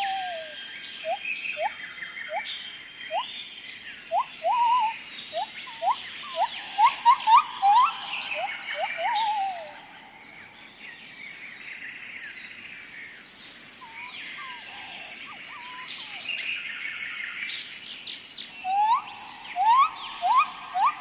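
Outdoor chorus of wild animal calls: many short upward-sliding calls over a dense layer of higher chirps and a steady high insect-like whine. The calls thin out about halfway through and pick up again near the end.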